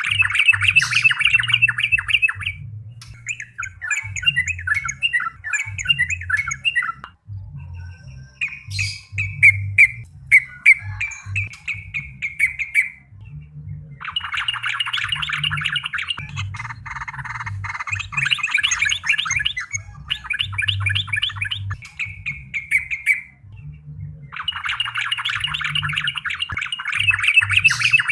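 A bulbul singing hard in repeated bouts of fast, chattering, bubbling notes, each bout a couple of seconds long with short pauses between them. A faint low hum runs underneath.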